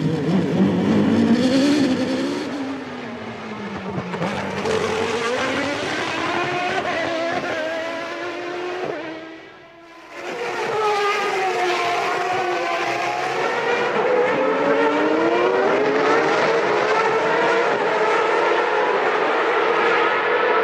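1993 Formula One cars' naturally aspirated racing engines at high revs, the pitch repeatedly rising under acceleration and dropping with braking and gear changes. About ten seconds in the sound briefly dips, then the engine note climbs back and holds high.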